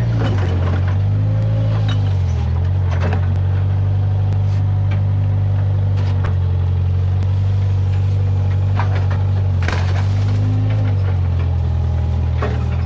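Case 580G backhoe loader's diesel engine running under load, its pitch dipping and recovering several times as it works. A few sharp cracks and knocks sound over it.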